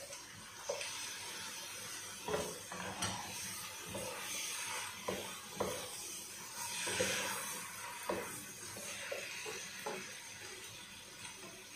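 Shrimp and diced tomatoes sizzling in a coated pot while a wooden spoon stirs them, knocking against the pot now and then. The sizzle swells a little past the middle.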